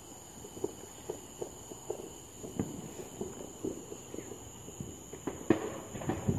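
Footsteps walking at an even pace, a series of soft steps about two or three a second.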